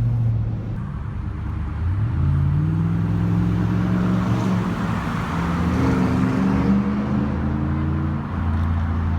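Straight-piped Chevrolet Tahoe V8 exhaust, muffler and resonator removed, droning while driving; the engine note climbs about two seconds in as it accelerates, holds higher, and drops back near the end.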